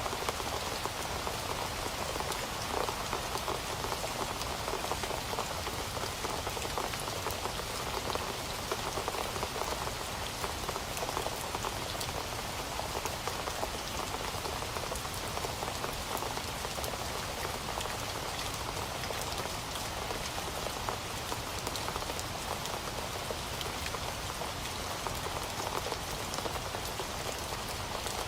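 Heavy rain falling steadily, a dense even patter of drops on a surface with no let-up.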